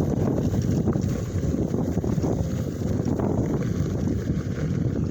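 Wind buffeting the microphone of a moving Onewheel rider, a steady low rumble that swells and dips.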